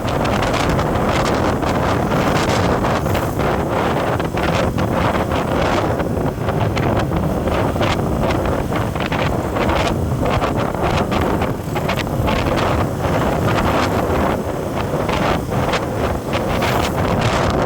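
Wind buffeting the microphone of a moving vehicle, a loud, steady rush with constant flutter over the running road noise.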